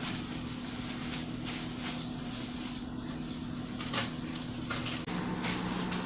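A person eating fried chicken, with short sharp clicks and smacks of chewing and handling food, one plainer about four seconds in, over a steady low mechanical hum that grows louder about five seconds in.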